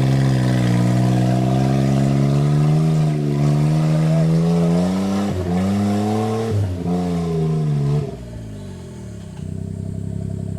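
Suzuki Jimny JA11 engine revving hard and held high, its pitch wavering with two brief dips, then easing off about eight seconds in and settling to a lower, steady idle near the end.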